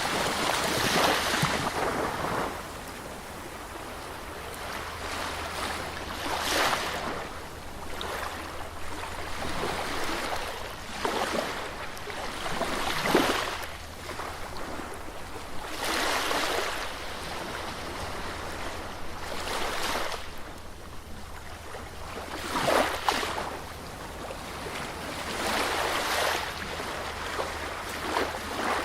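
Sea waves breaking on a beach, a rush of surf that swells and falls back every few seconds.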